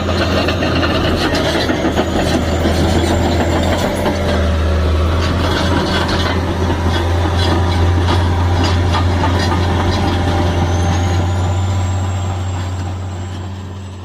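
Bulldozer's diesel engine running steadily with a strong low hum and rapid clanking, fading out over the last couple of seconds.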